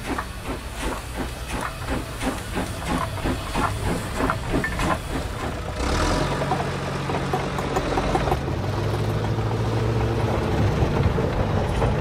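Steam locomotive chuffing with hiss, in even puffs of about four a second. About halfway it gives way to the steady low running of a heavy bulldozer engine.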